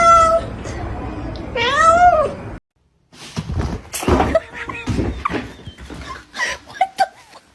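A domestic cat meowing: a call ending right at the start, then one long meow that rises and falls about two seconds in. After a sudden cut, a jumble of shorter sounds and voices.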